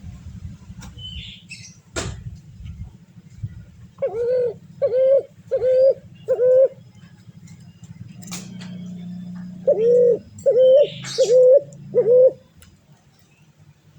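A bird with an unusual voice calling: two runs of four short, loud calls of even pitch, the second run about three seconds after the first.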